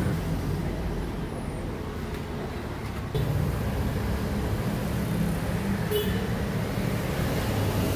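Steady low rumble of road traffic, louder from about three seconds in.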